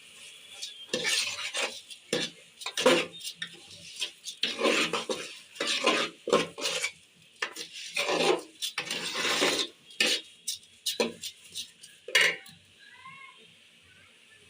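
A spoon scraping and stirring rice around a cooking pot in quick, irregular strokes as soaked rice is fried in butter and oil, with a light sizzle. The stirring stops about twelve seconds in, leaving a faint hiss.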